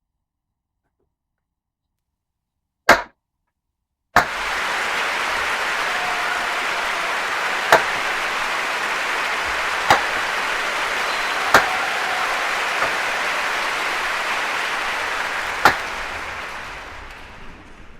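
One sharp crack of pallet wood being split, then a wood fire burning with a steady hiss and four sharp pops, fading near the end.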